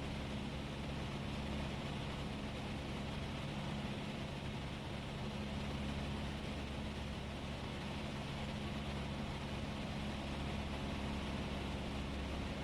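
Cessna 172S's four-cylinder Lycoming engine droning steadily in flight, heard inside the cabin over a steady hiss.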